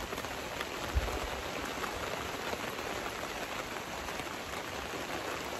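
Steady rain falling on the canopy tent overhead and the ground around it, with a soft low thump about a second in.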